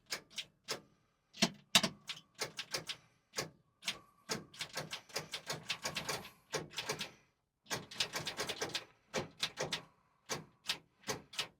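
Rapid, irregular clicking from the tow truck's starting circuit as it fails to crank, with a faint steady tone under parts of it. The owner suspects a failed connector in the starter wiring.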